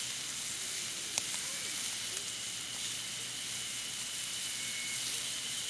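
Wood campfire burning with a steady sizzling hiss and an occasional sharp crackle, one about a second in.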